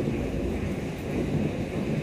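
Thunderstorm: a low rolling rumble of thunder over a steady hiss of rain.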